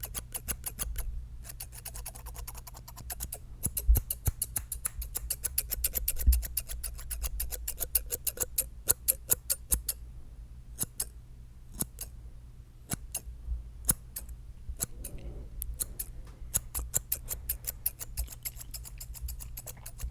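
Scissors snipping rapidly close to the microphone, in quick runs of sharp clicks with brief pauses between, over a low steady hum.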